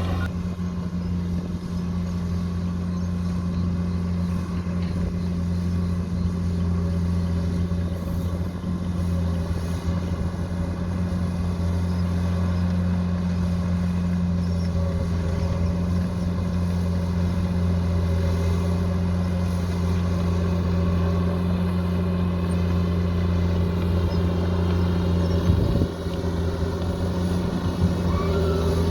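Bulldozer's diesel engine running steadily under load, with a short knock near the end.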